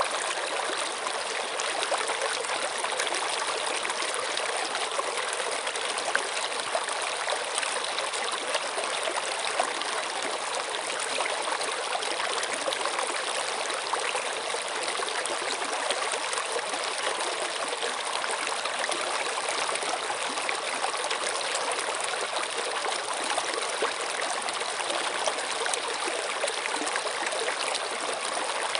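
Running water: a stream flowing and trickling steadily, an even rushing hiss with small splashes.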